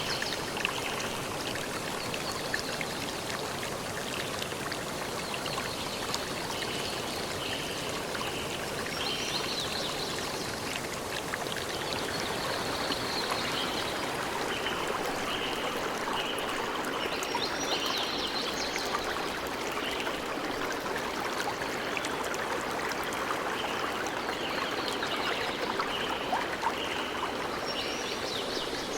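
A forest stream flowing steadily. Over it a bird repeats short high notes in runs of several, with brief higher chirps now and then.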